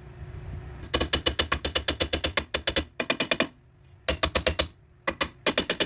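Ratchet wrench clicking quickly on a bolt, at about ten clicks a second. It comes in four bursts, each starting and stopping as the handle is worked back and forth.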